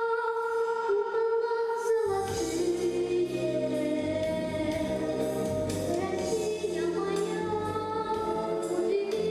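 Singing with musical accompaniment, as at a vocal studio concert. Held notes open the passage, and a fuller accompaniment with a bass line comes in about two seconds in.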